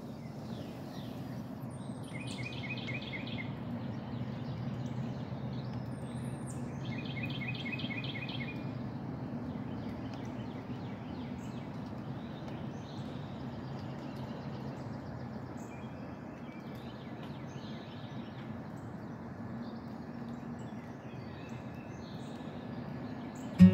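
Small birds calling outdoors over a steady low background rumble: a quick trill of rapidly repeated high notes about two seconds in and again about seven seconds in, with scattered short chirps.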